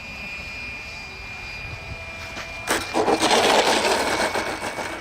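RC model airplane's motor whining at a steady pitch in the air. A little under three seconds in, a loud rushing, crackling noise starts suddenly and covers it for about two seconds.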